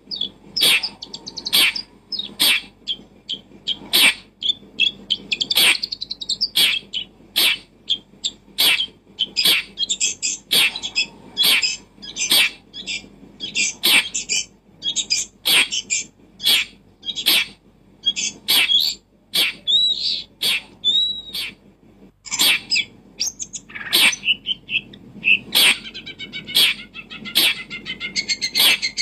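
Birds chirping close by: a rapid run of short, sharp chirps, about one or two a second, with a few whistled, arching calls about two-thirds of the way through.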